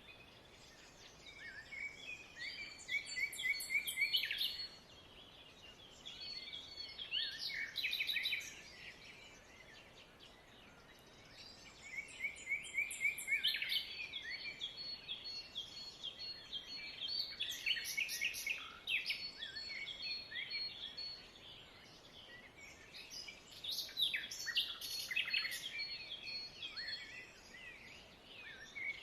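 Small birds chirping and twittering together in bouts of a few seconds, with quieter gaps between, and a thin high whistle-like note held through some of the bouts.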